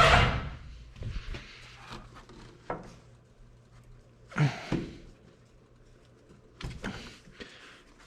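Metal side panel of a John Deere 317 skid steer being worked loose and lifted off: a loud scrape at the start, then a few short scrapes and knocks spaced a second or more apart.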